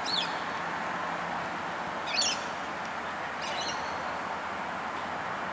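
Three short, squawky bird calls, the loudest about two seconds in, over steady outdoor background noise with a faint low hum.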